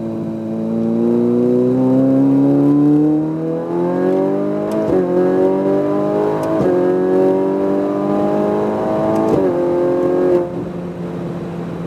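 Ferrari 488 Pista's twin-turbo V8 accelerating hard at full throttle, heard from inside the cabin. It climbs in pitch through the gears, with three quick upshifts that each drop the pitch sharply. Near the end the driver lifts off and the engine note falls back and steadies.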